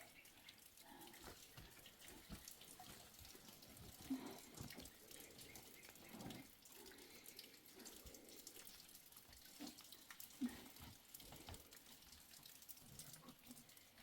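Faint water sounds: light dripping and trickling, with scattered small ticks and a couple of soft knocks.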